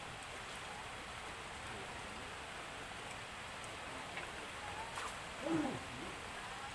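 Steady rain falling, an even hiss. Briefly, about five and a half seconds in, a short low call or voice sounds over it.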